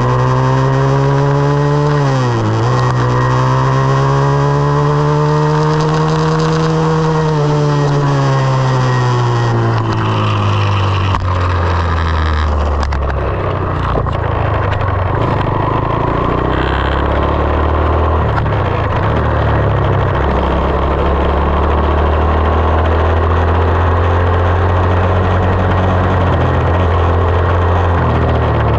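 2020 SSR 189 dirt bike's single-cylinder four-stroke engine running while ridden. The revs drop sharply about two and a half seconds in, climb again, ease off from about seven seconds, then settle low and steady for the rest.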